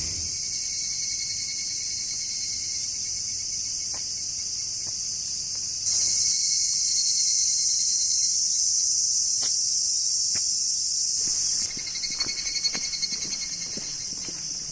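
A chorus of summer insects shrilling steadily. A louder chorus cuts in about six seconds in and stops abruptly near twelve seconds. A few faint clicks sound over it.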